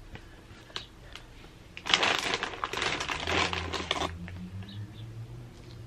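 Crackly rustling of hot Cheetos and their bag being handled: a dense spell of small crackles, starting about two seconds in and lasting about two seconds.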